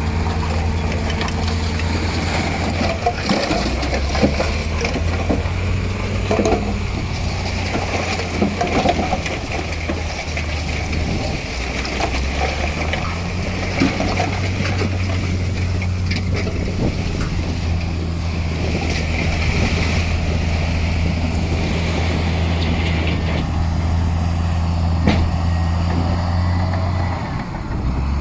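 Heavy diesel engine of earthmoving machinery running steadily, its pitch shifting a few times as the load changes, with scattered metallic clanks.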